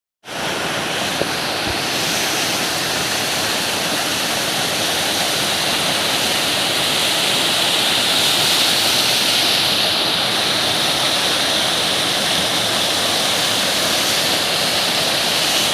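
Waterfall pouring, a steady rushing hiss of falling water that starts abruptly right at the beginning and holds even throughout.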